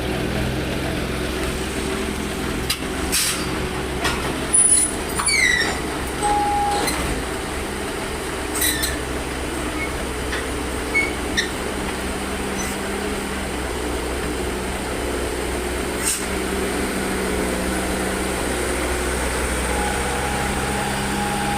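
A heavy vehicle's diesel engine running steadily, with a few scattered clicks and short high squeaks over it.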